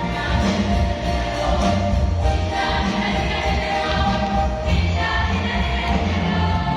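A choir singing held chords over a steady low bass accompaniment.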